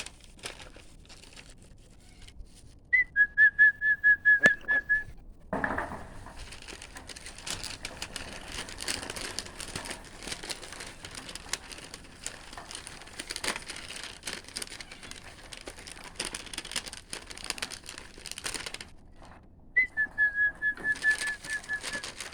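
A person whistling a bird-calling signal twice: a quick run of short, evenly repeated high notes, a couple of seconds long each time. Between the two calls, a long crackling, crinkling rustle.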